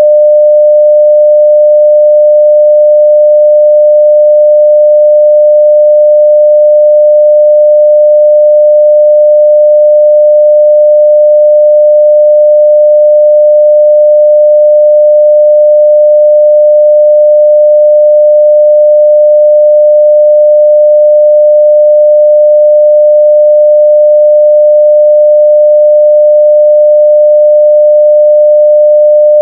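A steady 600 Hz sine-wave test tone at full level (0 dB), one pure pitch held unchanged.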